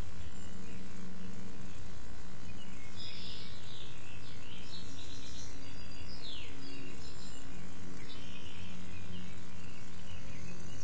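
Birds chirping and calling in a short cluster from about three seconds in, with one falling note in the middle, over a steady low hum.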